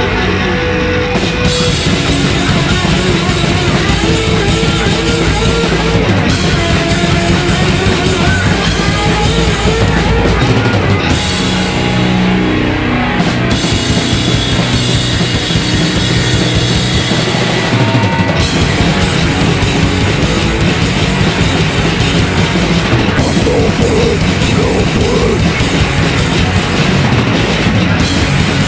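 Live heavy metal band playing loud: distorted electric guitars, bass guitar and a drum kit with bass drum.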